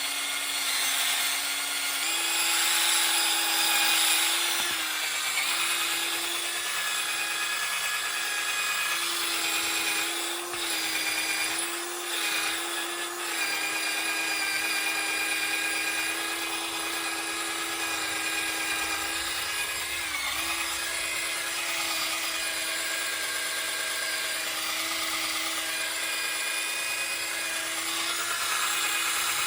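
Small electric power tool running steadily while it polishes an oxidized motorcycle fork leg with metal polish, its whine wavering and dipping briefly as it is pressed against the metal, over a rubbing hiss.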